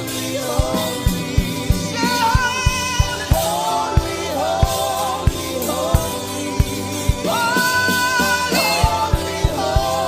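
Gospel worship song: sung voices over a band with a steady drum beat.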